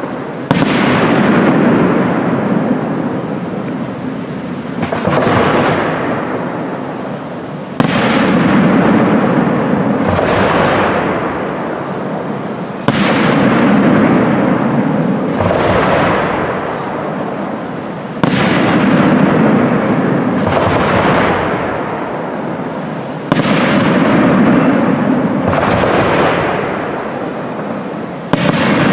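Professional aerial firework shells bursting in a steady sequence: about eleven loud bangs, roughly one every two to three seconds, each trailing off in a long rolling echo.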